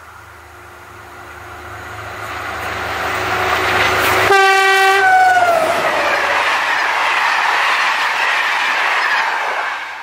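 An SNCF CC 72100 diesel locomotive and its passenger coaches pass at speed, the rush of the train growing louder as it nears. About four seconds in the locomotive sounds a short horn blast, whose pitch drops as it goes by. The coaches then rush past and fade away near the end.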